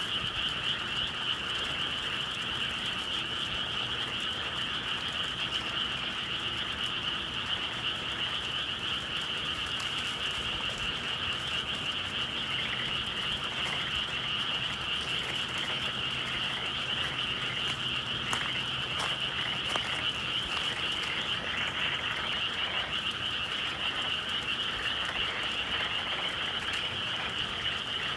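A dense chorus of many frogs calling at once, a steady unbroken trilling mass. A few faint clicks come about two-thirds of the way through.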